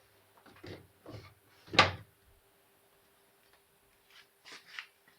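A few short knocks or thumps, the loudest about two seconds in, then a quieter pair near the end, over a faint steady hum.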